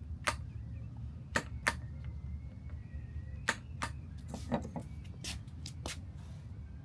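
Yamaha CS60 synthesizer's power switch flicked repeatedly, about nine sharp clicks at irregular intervals over a steady low hum, with the synth failing to power up.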